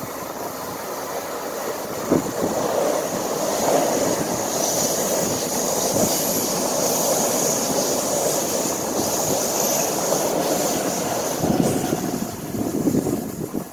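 Metro-North Bombardier M7A electric multiple-unit train passing close by on curved track: a steady rumble of wheels on rails, with a high steady whine over it for several seconds in the middle. A sharp clack comes about two seconds in, and the sound eases off near the end as the last car goes by.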